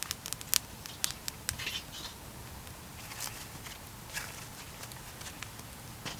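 Wood fire crackling: a quick run of sharp pops and snaps in the first two seconds, then scattered single snaps.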